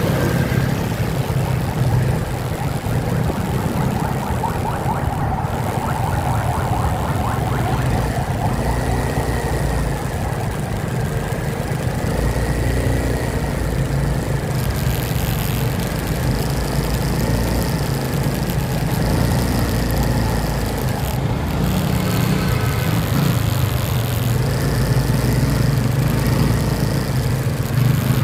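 Motorcycle engine running steadily on the move, with road and wind noise; a faint wavering tone comes through for a while in the middle.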